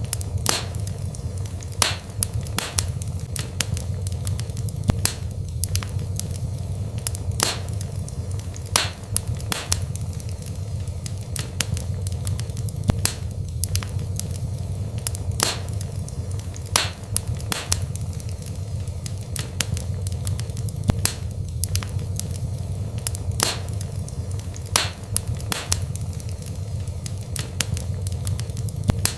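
Wood fire burning in a fireplace: a steady low rumble of flames with sharp crackles and pops from the burning logs, coming irregularly about once every second or two.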